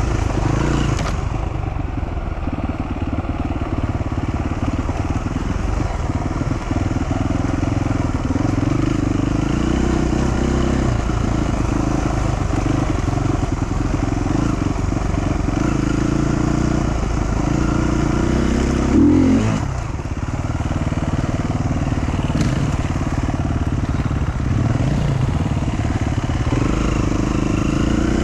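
Dual-sport motorcycle engine running while riding, its pitch rising and falling with the throttle and gear changes. A brief louder burst comes about nineteen seconds in, with a short dip right after.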